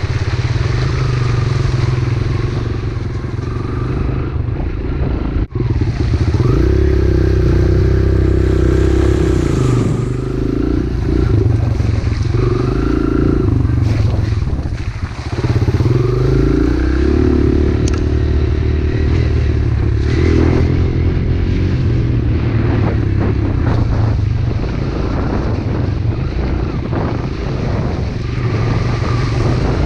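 Pit bike engine running as it is ridden, its pitch rising and falling again and again with the throttle. The sound drops out for an instant about five seconds in.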